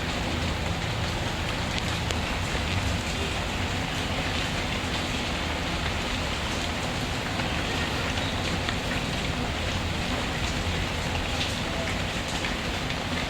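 Steady rain falling, mixed with the scattered sharp crackles of a wood fire.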